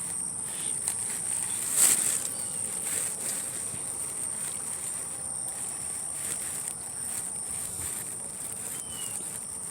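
Crickets trilling steadily in one high, continuous tone, with a single knock about two seconds in.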